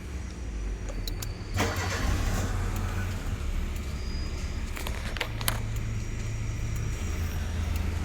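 Proton Waja's engine started from an aftermarket push-start button: a short burst of cranking about a second and a half in as it catches, then running steadily. A few sharp clicks come shortly before the start and again a few seconds later.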